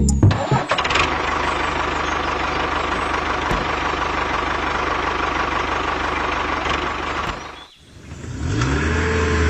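A motor running steadily with a dense, fast-pulsing mechanical noise, cutting out about three-quarters of the way through. Near the end a motor sound starts again and revs, its pitch rising and falling.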